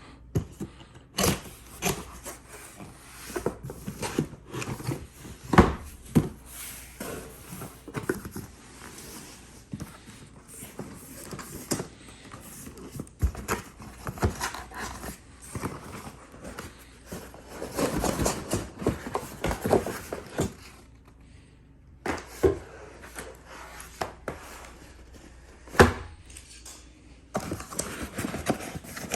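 Cardboard box and packaging handled during an unboxing: rubbing and scraping with irregular knocks and clicks.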